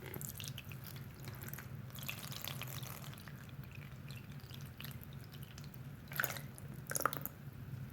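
Soapy wet sponge being squeezed: fine crackling of suds and dripping water, with two louder squelches about six and seven seconds in.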